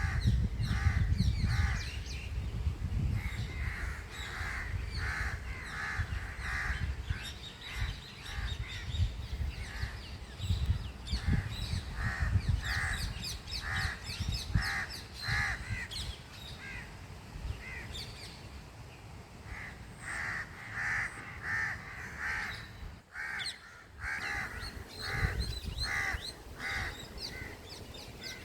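Crows cawing over and over in bouts of several harsh calls, with smaller birds chirping higher up and a low rumble underneath that is loudest in the first few seconds.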